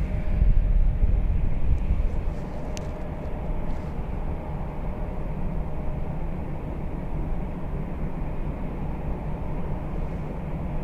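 Low, steady rumble of an Airbus A340-600's four Rolls-Royce Trent 500 jet engines at takeoff thrust as the aircraft climbs away, a little louder for the first couple of seconds and then even.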